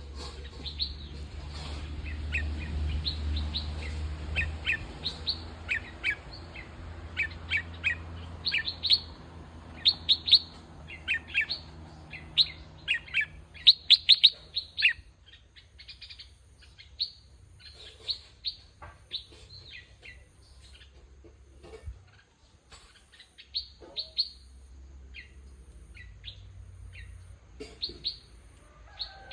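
Bulbuls calling with short, sharp, downward-slurred chirps, many in quick succession in the first half and more scattered later.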